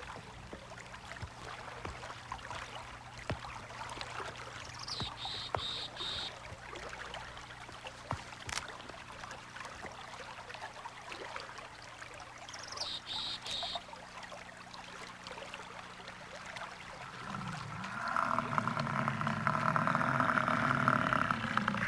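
Quiet marsh ambience: a faint steady hiss with scattered small clicks, and a short high bird call about five and thirteen seconds in. In the last four seconds a louder, steady pitched sound comes in.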